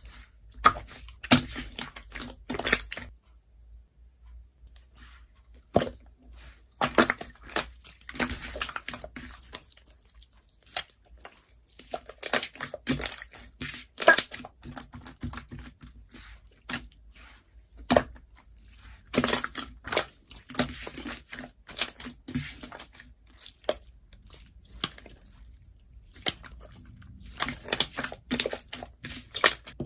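Paper and plastic being handled by hand: irregular rustling, crinkling and tearing, broken by sharp taps and clicks, with short quiet gaps between bursts.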